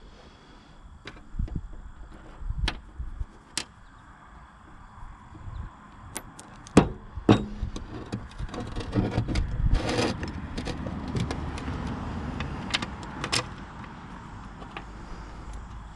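Metal tools and mower parts clinking and knocking during hands-on repair work: scattered sharp clinks, then a longer stretch of rattling and scraping in the middle.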